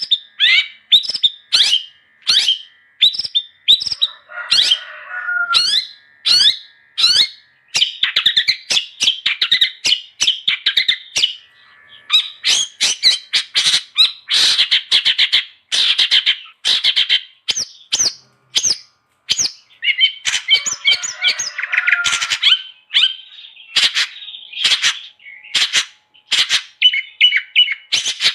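Long-tailed shrike (cendet) singing loudly, a rapid unbroken run of sharp chirps and varied phrases, with a couple of harsher, scratchier squawking stretches.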